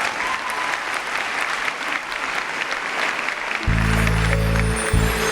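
Audience applauding. About three and a half seconds in, loud, deep, steady notes come in over the hall's sound system, breaking off briefly near the end: the music for the next song starting.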